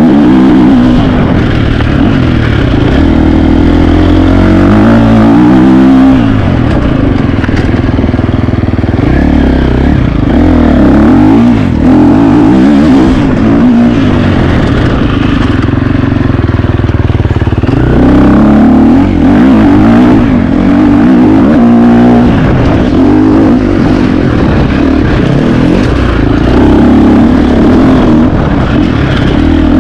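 2025 KTM 350 XC-F's single-cylinder four-stroke dirt bike engine running hard. Its pitch climbs and drops again and again as the throttle is worked and the gears change.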